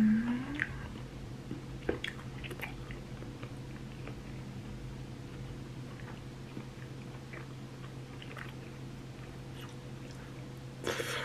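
Close-up eating sounds: chewing and biting, with scattered small clicks of a fork against a clay pot of melted cheese fondue, over a steady low hum. A short rising 'mm' is heard right at the start, and there is a brief noisy scrape near the end.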